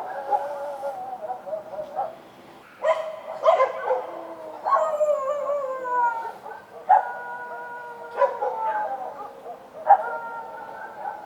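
Street dogs barking and howling at night: sharp barks that run into long falling howls, several dogs overlapping.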